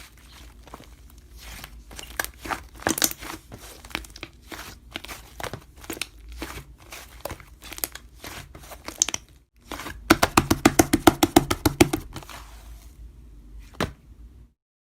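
Irregular sharp clicks and crinkly rustling, with a fast run of clicks, about ten a second, starting about ten seconds in; the sound cuts off shortly before the end.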